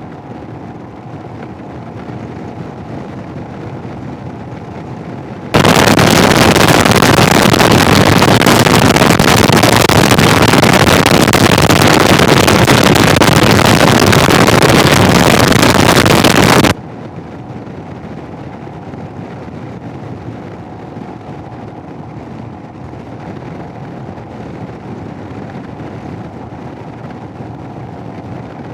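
Motorcycle riding noise, engine and wind, through a helmet intercom microphone. About five seconds in, it switches abruptly to a very loud, even rush of wind noise and static for about eleven seconds, then cuts straight back. The burst is the Sena 10C's small external microphone left fully open while the helmet microphone is cut for a Garmin GPS instruction: the fault the rider is testing.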